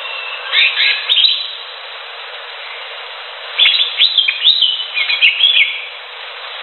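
Cucak hijau leafbird singing in two bursts of quick chirping notes that glide up and down: a short one about half a second in and a longer run of notes from about three and a half seconds, over a steady background hiss.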